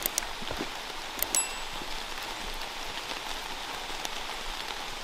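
Steady rain falling on the forest, with scattered sharp drops and clicks and a brief high ring about a second in.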